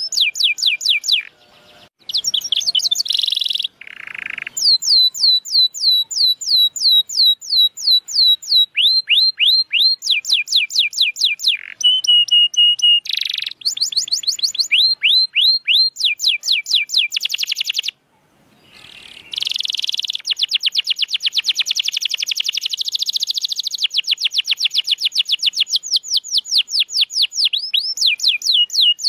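Canary singing a long, fast song made of rolled trills, each a rapid run of repeated downward-sweeping notes, switching from one trill to another every few seconds. The song breaks off briefly about two seconds in and again around eighteen seconds.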